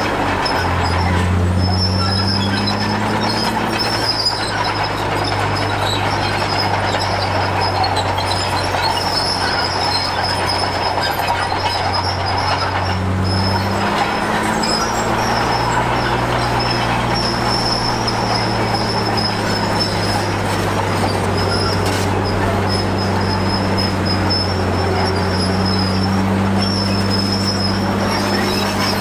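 Crawler bulldozer's diesel engine working under load, with the clatter of its steel tracks and a steady high squeal. The engine note changes about a second in and again around thirteen seconds.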